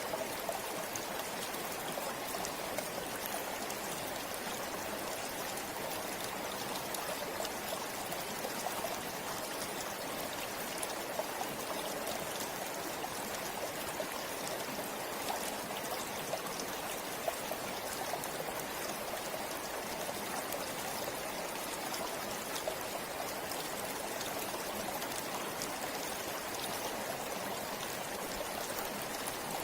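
A shallow river or forest stream flowing steadily, a continuous rush of water with many small splashes and droplet ticks.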